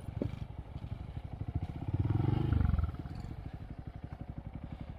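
2023 Honda Monkey's single-cylinder engine through a Yoshimura RS3 slip-on exhaust with spark arrestor, running at low revs with an even stream of exhaust pulses. About two seconds in the throttle opens briefly and it gets louder for under a second before dropping back.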